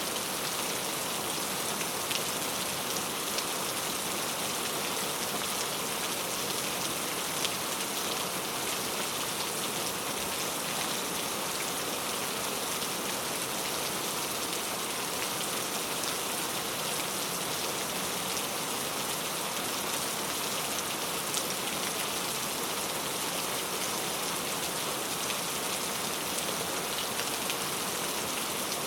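Heavy rain falling on mango tree leaves: a steady hiss with many small drop ticks.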